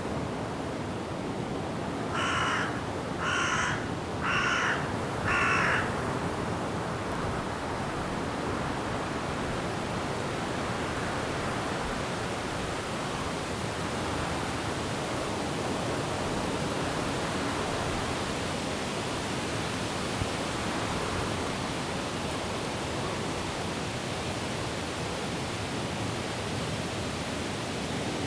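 A crow cawing four times, about a second apart, a few seconds in, over a steady rush of wind through the trees.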